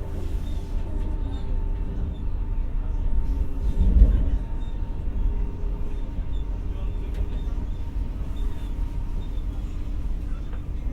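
Stockholm commuter rail X60 electric multiple unit heard from inside the car: a steady low rumble with a faint steady whine, and a louder bump about four seconds in.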